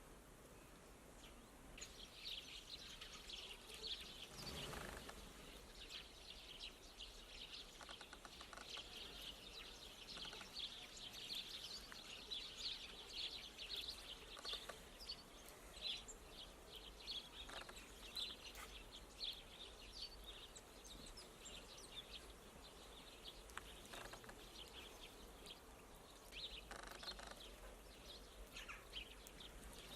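European greenfinches twittering: a dense, continuing run of short high chirps, with one soft thud about four and a half seconds in.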